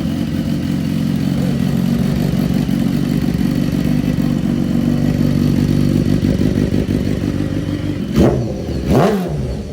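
Motorcycle engine idling steadily, then revved twice in short throttle blips near the end, the second rising and falling back.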